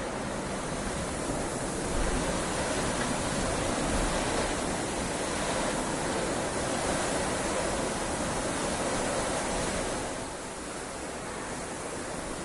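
Heavy rain falling steadily, a dense hiss with no separate drops standing out; it grows louder about two seconds in and eases again near the end.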